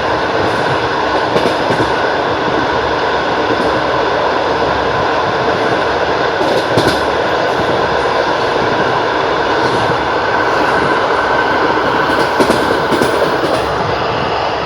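Russian long-distance passenger train running at speed: a steady rumble and rattle of the carriage, with a few clicks of the wheels over rail joints.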